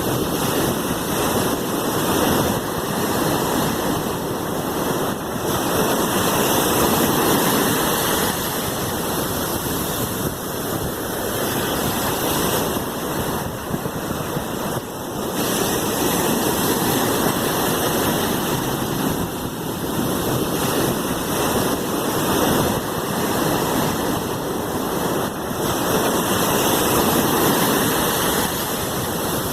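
Sea waves washing in, a continuous rushing hiss that swells and eases every several seconds.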